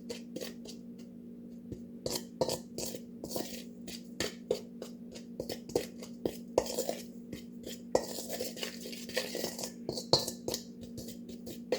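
Spoon clinking and scraping against a bowl in quick, irregular strokes as a dry spice mix is stirred, over a steady low hum.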